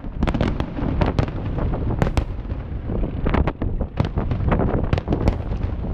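Fireworks display: a rapid, irregular barrage of shell bursts, several sharp bangs and cracks a second, over a continuous low rumble.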